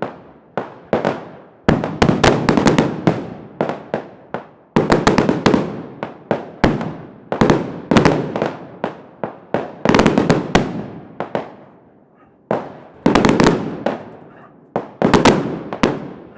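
Fireworks going off: rapid volleys of sharp bangs and crackles, each cluster trailing off, with a brief lull about twelve seconds in.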